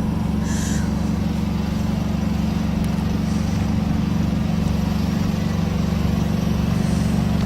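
Large engine running steadily at an even speed, a constant low drone, with a short hiss about half a second in.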